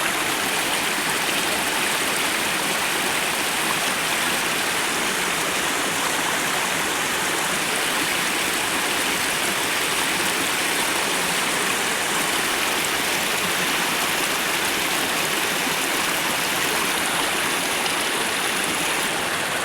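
Waterfall rushing water: a steady, even rush with no breaks.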